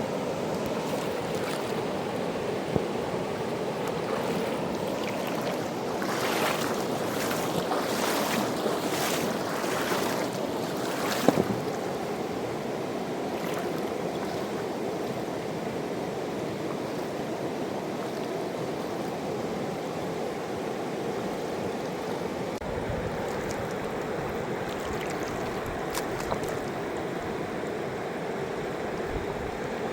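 Fast mountain river rushing steadily, with a short run of sharper splashes between about a quarter and a third of the way in. A low rumble joins the rush about three-quarters through.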